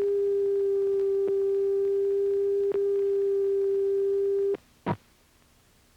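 A steady, mid-pitched electronic test tone with two faint clicks in it, cutting off sharply about four and a half seconds in. A single short pop follows, then near silence.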